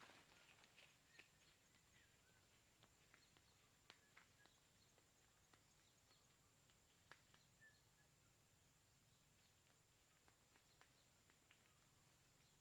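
Near silence: faint scattered ticks and rustles, with a few short, faint chirps.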